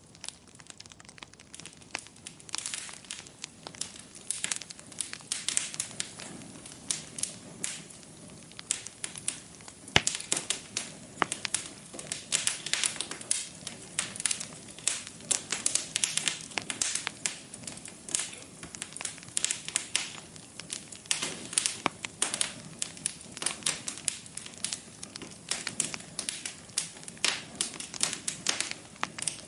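Wood fire crackling in a fireplace: a steady run of small pops and snaps, with one sharper, louder pop about ten seconds in.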